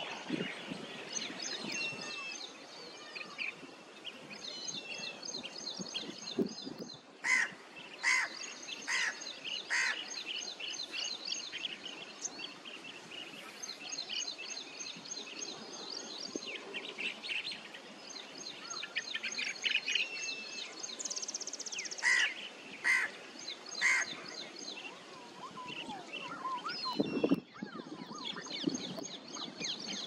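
Many birds chirping and trilling in a continuous high chatter. Loud short calls stand out: a run of about four a quarter of the way in and three more about three-quarters of the way in. A dull low bump comes near the end.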